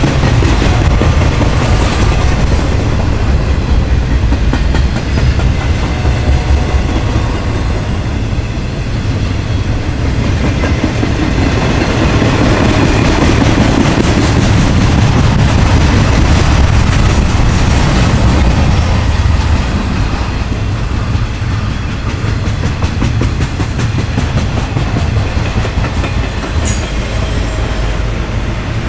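Intermodal freight train rolling past at speed: a steady heavy rumble with wheels clicking rhythmically over the rail joints.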